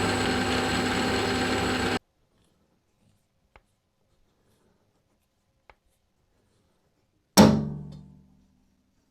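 A power tool running steadily with a whine, cutting off suddenly about two seconds in. After a pause with two faint ticks, a single loud knock near the end, ringing briefly as it fades.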